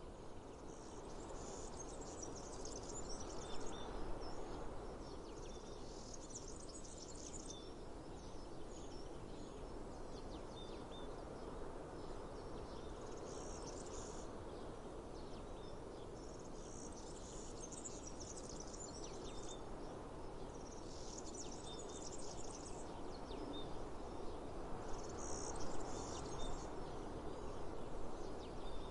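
Cicadas buzzing in repeated bursts of a second or two, high-pitched, with short bird chirps, over a steady background rush of outdoor noise.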